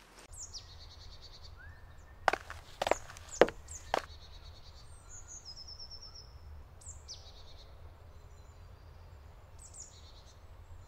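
Small birds calling: short, high, falling trills repeated every second or two over a low steady rumble. Four sharp knocks about half a second apart, between two and four seconds in, are the loudest sounds.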